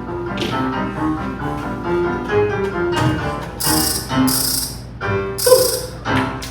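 Piano playing stage-play accompaniment music, with three short rattling bursts about halfway through.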